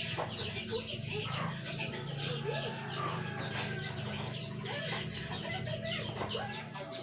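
Birds in the background, with many short calls scattered throughout, over a steady low hum.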